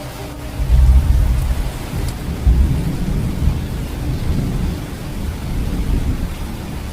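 Thunder rumbling in several deep swells over steady rain.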